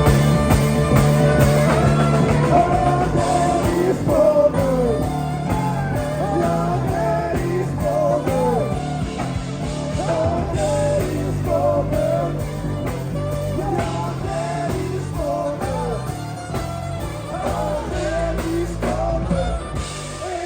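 Live band playing a rock song: a lead singer over a steady bass line and a regular drum beat.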